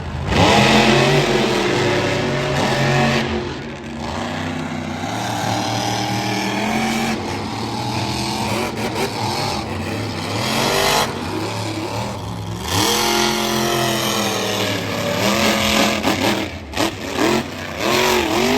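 Monster truck engine revving hard, its pitch climbing and falling again and again, with a sudden loud burst of throttle at the start and several quick revs near the end.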